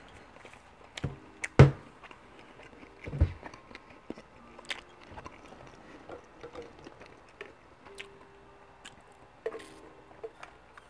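Close-miked chewing of soft garlic breadsticks, with scattered mouth clicks and smacks and one sharp click about a second and a half in. A sip through a straw near the end.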